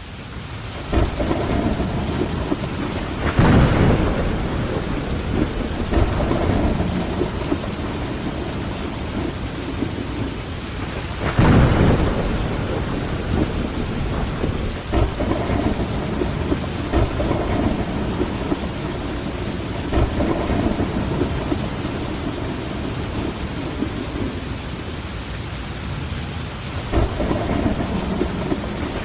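Steady heavy rain on a window pane with low rumbles of thunder. It fades in from silence at the start, and the thunder swells louder about three seconds in and again around eleven seconds in.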